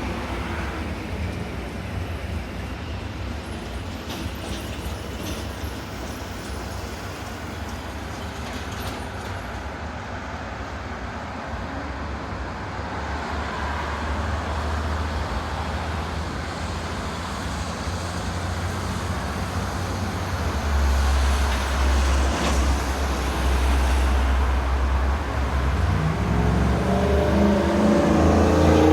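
City road traffic: a steady rumble of cars and trucks, with one vehicle's engine accelerating, its pitch rising, near the end.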